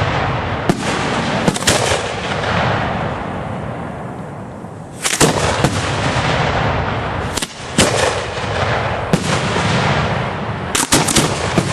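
Aerial fireworks shells going off in a rapid barrage: sharp bangs every second or two, with a continuous wash of noise between them. Dense clusters of reports come about five seconds in and again near the end.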